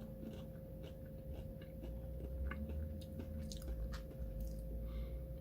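Quiet mouth sounds of someone chewing a candy-coated chocolate piece, like a Smartie or M&M, with irregular small crunches and crackles.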